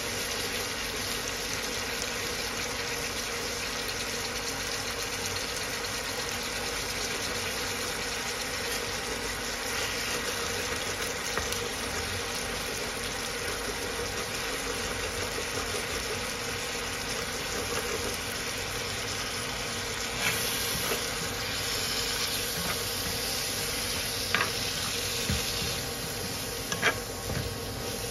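Egg and leafy greens sizzling steadily in a hot non-stick pan as a wooden spatula breaks the yolk and stirs. A few sharp taps and scrapes of the spatula on the pan in the last several seconds.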